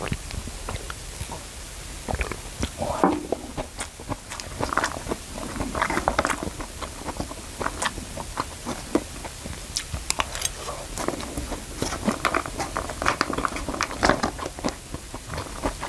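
Close-miked chewing and biting of a man eating nasi goreng (fried rice), with irregular small clicks, some from a fork against the food wrapping.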